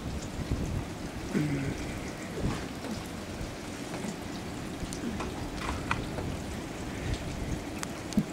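Steady rain falling, an even hiss with a few faint short sounds over it.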